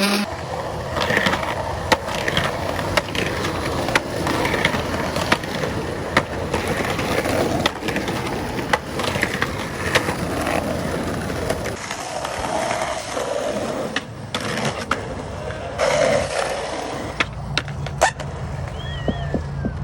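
Skateboard wheels rolling, broken by many sharp clacks and impacts of the board landing and hitting the ground.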